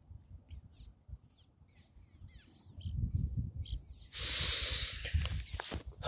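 Small birds calling in a quick series of short chirps. About three seconds in, low rumbling starts, and a second later a loud rushing hiss takes over.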